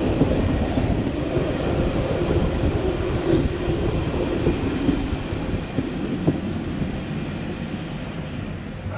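Matterhorn Gotthard Bahn regional train running on the rails: a steady rumble of wheels and running gear with a faint tonal whine, slowly getting quieter toward the end.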